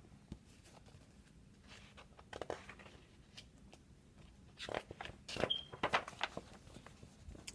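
Faint rustling and soft clicks from a picture book being handled, in scattered bursts about two seconds in and again between about five and six and a half seconds in, with one brief faint squeak.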